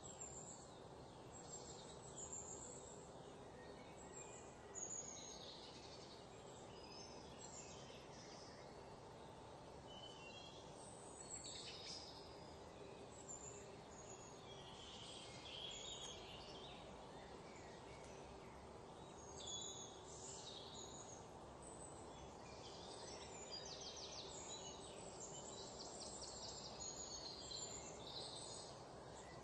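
Faint outdoor ambience: scattered short bird chirps over a low, steady background hiss.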